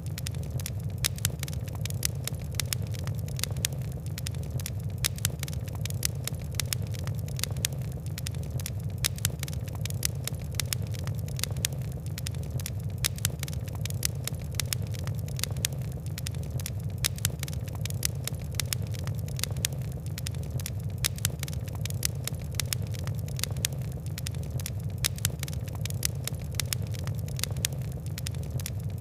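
Fire crackling: dense, irregular pops and snaps over a steady low rumble of burning.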